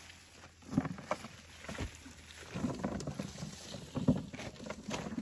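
Irregular knocks, thumps and rustling from close handling, with louder thumps about a second in and again around four seconds in.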